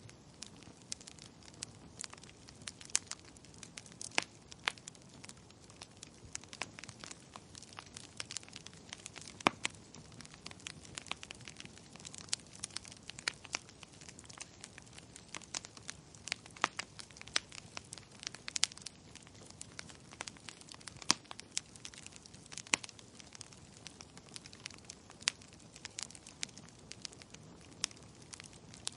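Wood fire crackling in a fireplace: irregular sharp pops and snaps, a few clearly louder than the rest, over a low steady hiss of burning.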